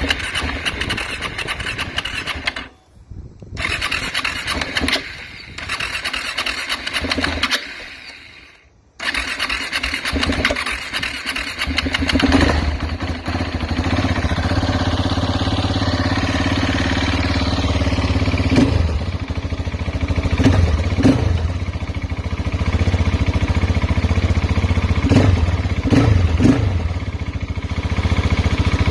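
KTM motorcycle cold start. The engine is cranked on the starter in bursts, with brief pauses about three and eight seconds in, and catches about nine seconds in. It then settles into steady running, with a few short bursts of higher level later on.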